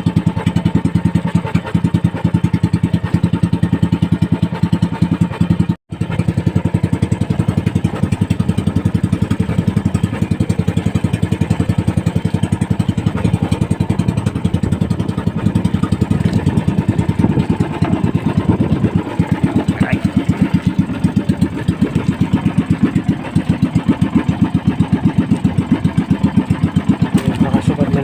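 Small fishing boat's engine running steadily with a fast, even chugging beat. It cuts out for a split second about six seconds in, then carries on.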